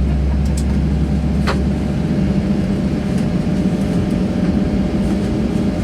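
Steady low hum and rumble of a Boeing 737-700's cabin, heard from a seat beside the engine. The deepest part of the hum drops away about a second and a half in, when there is a single short click.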